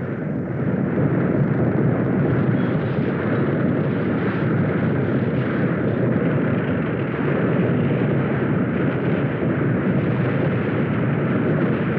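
Earthquake sound effect: a steady, low rumbling roar that swells about a second in and holds.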